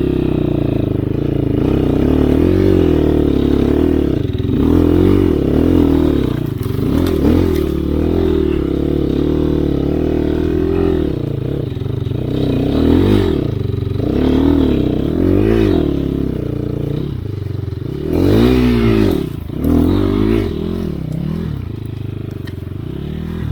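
Enduro dirt bike engine revving in repeated rising and falling surges as it tries again to climb a snowy slope, the rear tyre struggling for grip.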